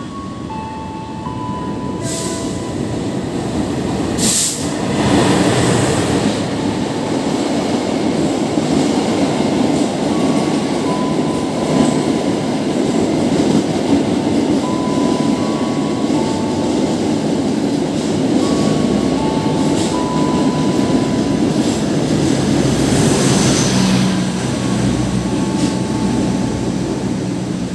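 Long-distance passenger train, hauled by a CC206 diesel-electric locomotive, running through the station at speed. The steady rush of wheels and carriages builds a couple of seconds in, stays loud, and eases near the end as the train moves away.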